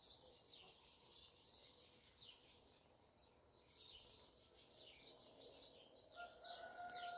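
Near silence with faint, scattered bird chirps in the background. A faint steady tone starts about a second before the end.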